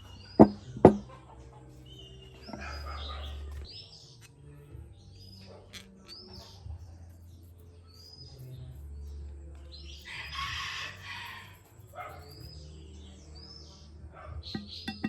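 Small bird chirping over and over in short, high, arching calls. Two sharp knocks come near the start, and a steady low hum runs underneath.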